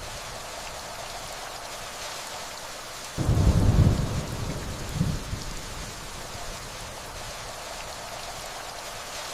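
Steady rainfall with distant thunder: a low rumble comes in about three seconds in, swells again briefly about a second later, then dies away under the rain.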